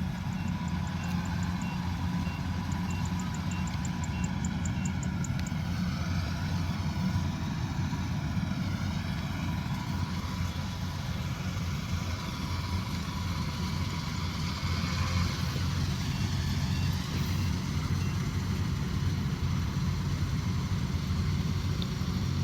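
Kubota DC108X combine harvester's engine running steadily, a continuous low drone with machinery noise over it.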